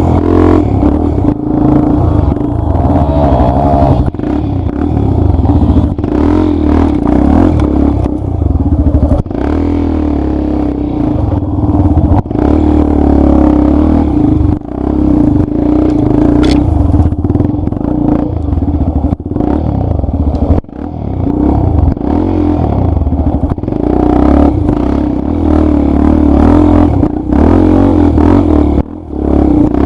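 Dirt-bike engine running hard under changing throttle on an off-road trail, dipping briefly as the throttle is closed three times.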